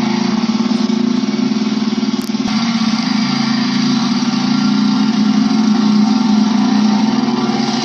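1972 Ski-Doo Olympique 335 snowmobile's two-stroke engine running at a steady speed, with a brief click about two seconds in.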